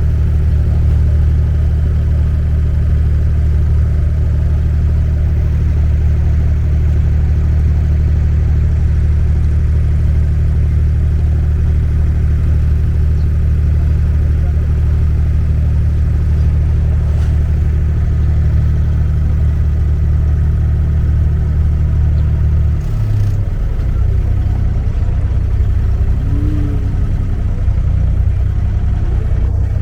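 An abra water taxi's diesel engine running steadily, heard on board as a loud, deep hum; about three quarters of the way through its note changes and settles lower, as if the engine is throttled back.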